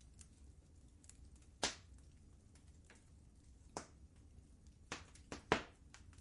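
Wood fire crackling in a fireplace: scattered sharp pops at irregular intervals, a handful of louder ones with the loudest near the end, over a faint low steady rumble.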